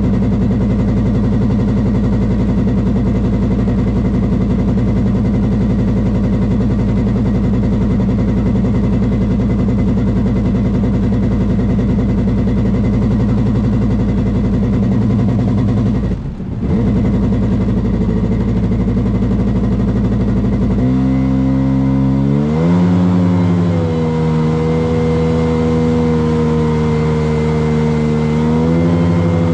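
Motorboat engine running steadily, then revving up about two-thirds of the way in, its pitch climbing and holding higher.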